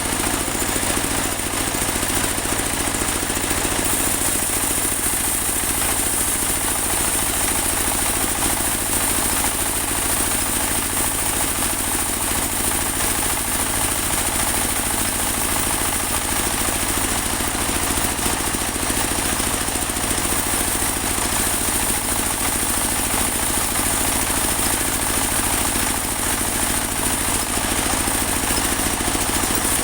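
Engine-driven portable band sawmill running steadily while it cuts a large teak log, the engine's rumble carrying a steady high whine.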